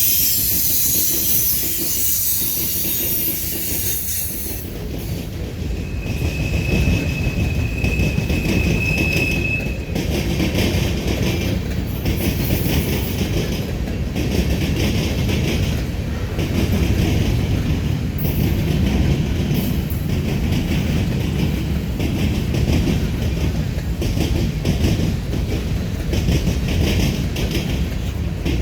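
Manifest freight train rolling past: a steady rumble with regular clicking of wheels over rail joints. A high wheel squeal is heard in the first few seconds and again from about 6 to 9 seconds in.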